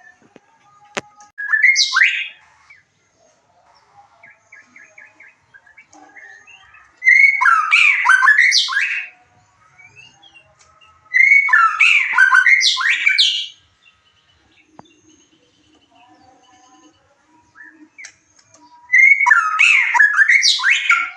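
White-rumped shama (murai batu) singing: four loud, rich, fast-changing song phrases of about two seconds each, several seconds apart, with soft chirps and short whistles in the gaps.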